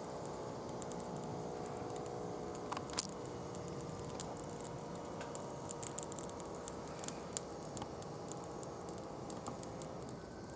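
Wood burning in a fire pit, crackling with scattered small pops and one sharper pop about three seconds in, over a faint steady hum.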